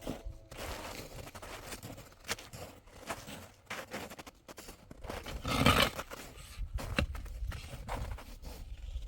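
Irregular scraping, rustling and small knocks from hands working with materials. A louder rushing scrape comes about five and a half seconds in, and a sharp click follows about a second later.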